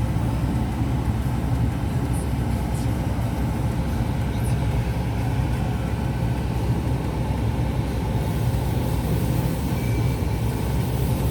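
Car engine idling with a steady low rumble, heard from inside the cabin as the car creeps slowly forward.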